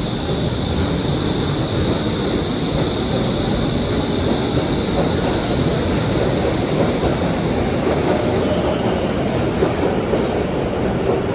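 Stockholm Metro train running on the track: a steady rumble, with a high whine that fades out about four seconds in and a few faint clicks near the end.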